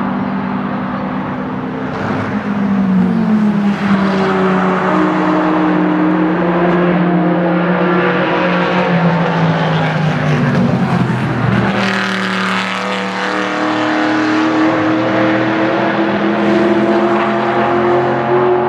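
High-performance car engines running hard on a race track. The engine pitch holds fairly steady, falls away about eleven seconds in, then climbs steadily as a car accelerates.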